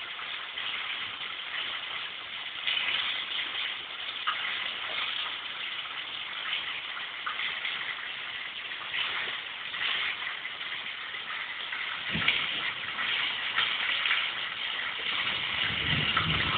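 Heavy rain pouring onto a flooded paved yard and foliage: a steady hiss with occasional sharper splashes. A low rumble comes in near the end.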